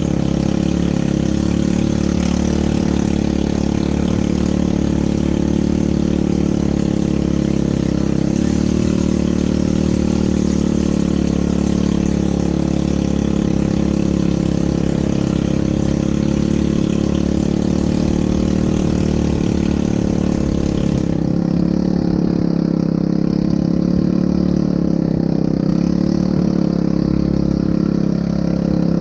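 ATV engine running steadily with a continuous drone. The high hiss above it drops away suddenly about three-quarters of the way through.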